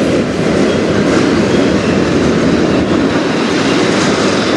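Double-stack intermodal container well cars rolling past, a loud, steady noise of steel wheels running on the rails.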